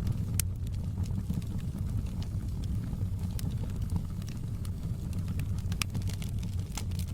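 Wood fire burning in a fireplace: a steady low roar with sharp crackles and pops scattered through it, roughly one a second.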